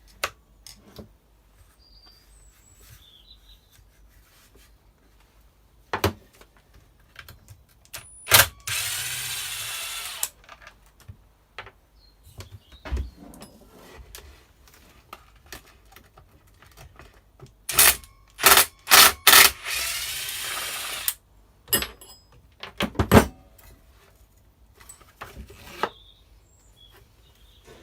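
Cordless drill-driver spinning fasteners out of a strimmer housing: one run of about two seconds, later a few quick trigger pulses and another run of about a second. Knocks and clicks of tools and parts being handled come in between.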